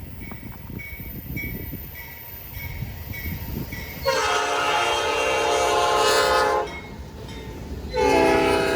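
A diesel freight locomotive's horn sounds two long blasts over the low rumble of the train. The first starts sharply about four seconds in and lasts about two and a half seconds; the second begins near the end. Before the horn, a high bell dings about twice a second.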